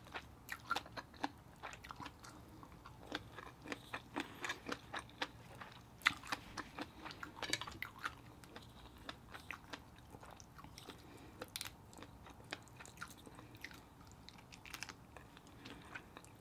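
Close-miked chewing of seafood: soft wet mouth clicks and smacks in an irregular patter, busier in the first half and sparser later.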